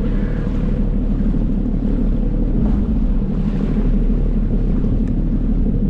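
Jet ski engine running steadily under way, with water rushing and wind buffeting the action-camera microphone.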